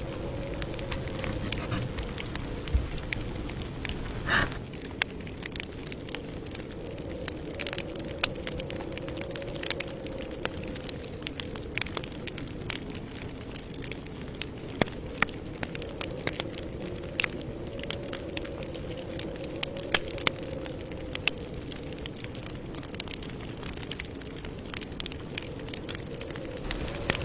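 Campfire burning with irregular sharp crackles and pops over a steady low rumble of flames, with one stronger pop about four seconds in.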